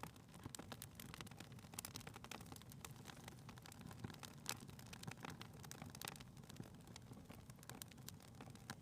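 Faint crackling of a wood fire in a fireplace: irregular small pops and snaps over a low steady rumble.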